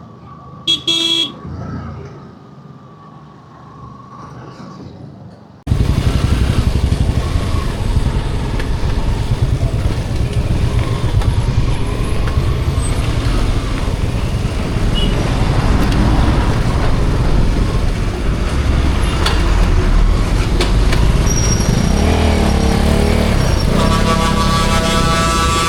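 Motorcycle riding on the road: a loud, steady rumble of engine and wind noise that starts abruptly about six seconds in. A vehicle horn toots briefly about a second in and again near the end.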